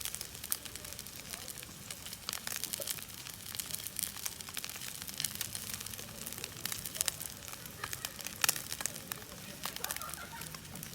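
Campfire wood crackling, with irregular sharp pops throughout.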